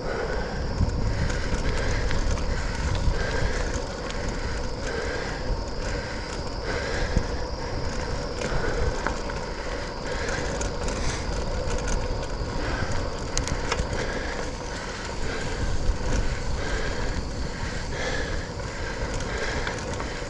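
Specialized Sirrus X hybrid bicycle being ridden on a wet trail: steady rolling tyre and drivetrain noise with a faint pulse repeating a little more than once a second, and wind rumble on the microphone.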